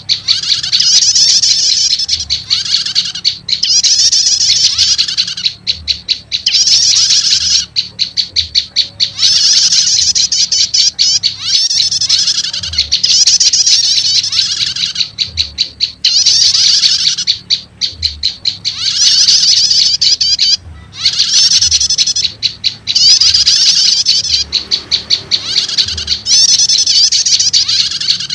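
Loud bird-lure recording of prenjak lumut (a small Indonesian warbler) mixed with prenjak stater calls: phrases of rapid, high-pitched chirping about a second long, repeated over and over, with fast ticking trills between them.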